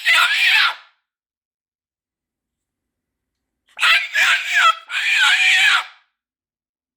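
Moluccan cockatoo screaming in a frustration tantrum: one short harsh scream at the start, then, after a few seconds of silence, two long, very loud screams back to back with wavering pitch.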